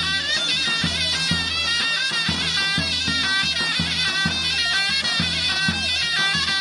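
Traditional folk music: a shrill reed wind instrument playing a wavering, ornamented melody over a bass drum beating about twice a second.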